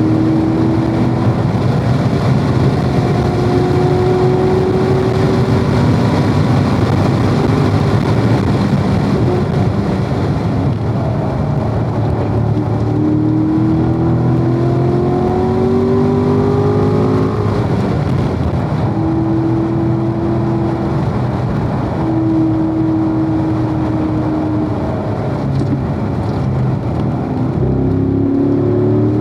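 Corvette V8 engine at speed on a racetrack. Its pitch climbs in steps through the gears and holds level in places, over a steady rush of wind and tyre noise.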